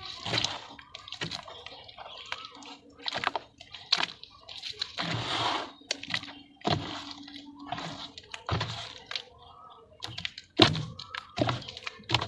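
Lumps of red dirt being dipped in water and crushed: wet crumbling and splashing in repeated bursts about once a second, with sharp cracks among them.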